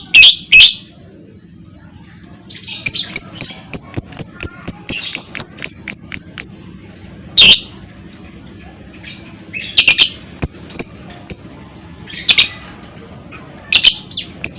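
Lovebird calling: a few loud, harsh shrieks, then a quick run of short, high chirps at about four or five a second, then single shrill calls every two or three seconds.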